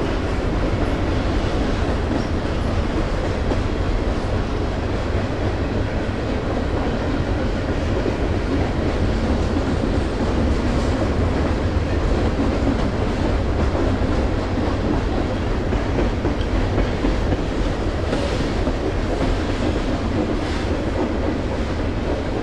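A train passing at close range: a steady, loud noise of wheels running on the track.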